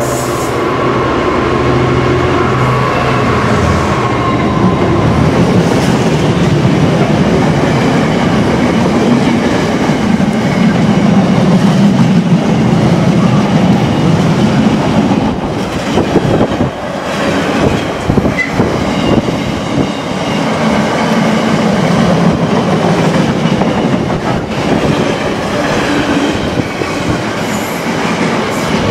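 A Freightliner Class 66 diesel locomotive, its two-stroke V12 engine running, passes through in the first few seconds, followed by a long container train of flat wagons rumbling and clattering over the rails with occasional knocks.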